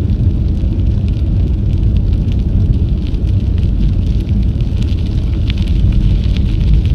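Wind rumbling steadily on an action camera's microphone while riding a bicycle, with a scattering of small crackles from the tyres rolling over a gravel trail.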